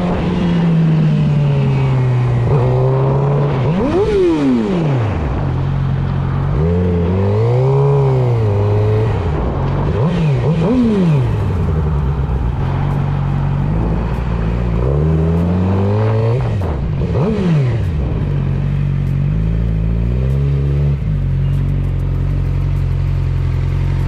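Motorcycle engine revving up and falling back several times in the first two-thirds, then running at a fairly steady speed for the last several seconds.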